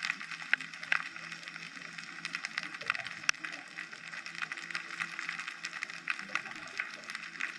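Underwater ambience picked up by a GoPro on a dive: a dense, irregular crackle of small clicks over a faint steady low hum.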